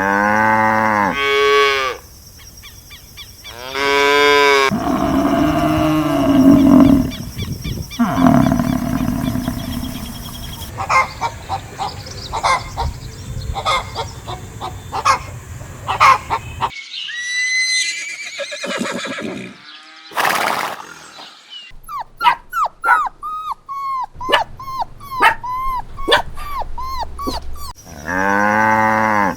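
A series of farm animal calls one after another, with a cow mooing at the start, again about four seconds in, and near the end; other shorter animal calls and chirps fill the middle.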